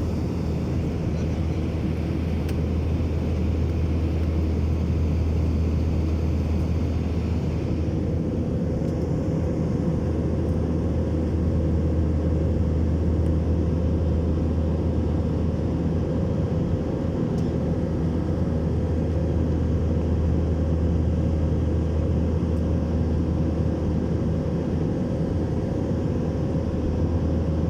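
Steady low drone of an airplane's engines, unchanging throughout.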